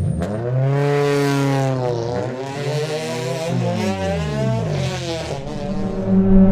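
Car engines revving on a race track, their pitch rising and falling with more than one engine heard at once. Near the end one engine settles into a steady, louder drone.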